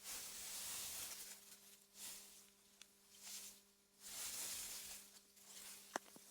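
Soft wind hiss through meadow grass, swelling and fading in gusts every second or two, over a faint steady low hum. A single sharp click comes near the end.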